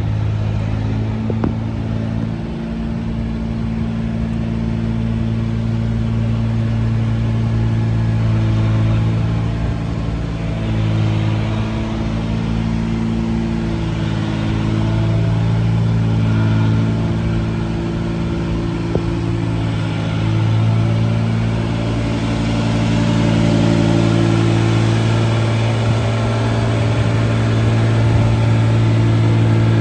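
Liebherr T 264 mining haul truck running as it moves, a steady low engine note whose pitch shifts up and down a little, growing slightly louder near the end.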